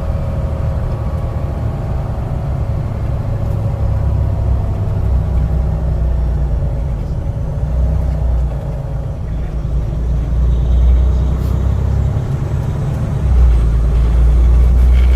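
Low, steady rumble of a truck's engine and road noise heard inside the cab while driving, growing a little louder near the end.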